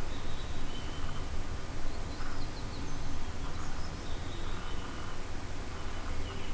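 Faint short high chirps of small birds, a few scattered calls, over a steady low background rumble with a thin constant high whine.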